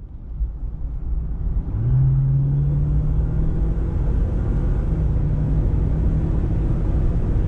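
Jeep Wrangler 4xe plug-in hybrid driving: a steady low rumble, with a low drone that comes in about two seconds in and then holds steady.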